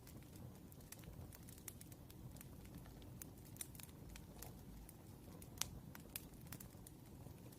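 Faint crackling of a burning wood fire: irregular small pops and snaps over a low steady rumble, with one sharper pop a little over halfway through.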